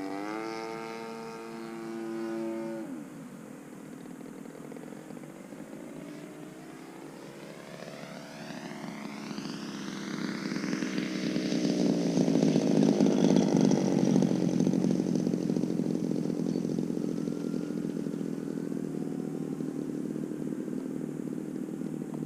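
DLE 35RA single-cylinder two-stroke gas engine of a model aerobatic plane running after a fresh top-end rebuild: it revs up briefly, drops back, then rises in pitch and grows loudest about halfway through before holding a steady note.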